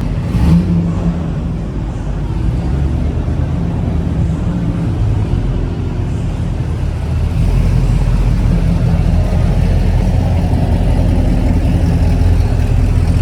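Car engines running with a steady low drone that grows deeper and stronger about seven seconds in.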